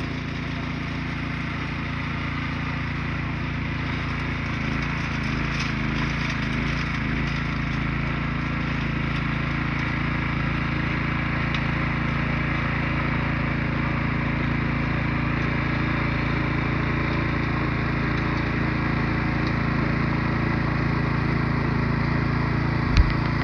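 Small petrol engine running steadily at constant speed, with one sharp knock near the end.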